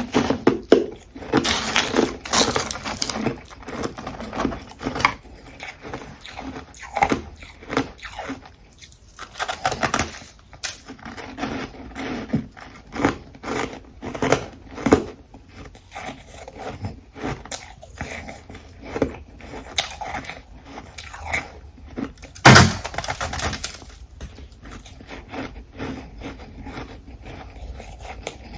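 Ice being bitten and chewed close up, a run of irregular crunches and crackles, with the loudest crunch about three quarters of the way through.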